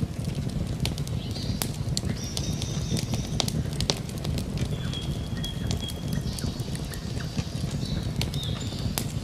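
Campfire crackling, with frequent sharp pops and snaps over a low rumble of burning wood. High, thin, drawn-out tones from outdoor nature sounds come and go above it.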